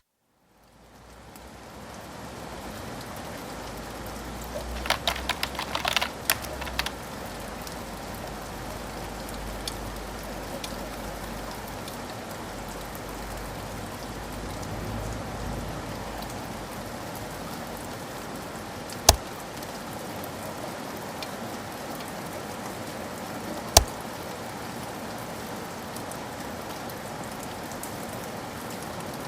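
Steady rain fading in over the first couple of seconds and then holding even. A quick run of small clicks comes about five to seven seconds in, and two single sharp clicks later on.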